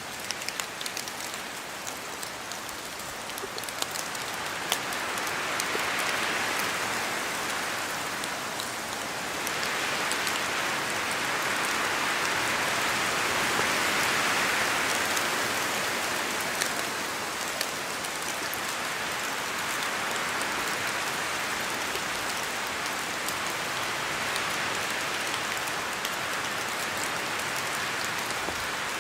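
Steady rain falling through forest trees, with sharp single drops pattering from the leaves, most of them in the first few seconds. The sound swells twice, broadly, loudest near the middle, as gusts of wind pass through the trees.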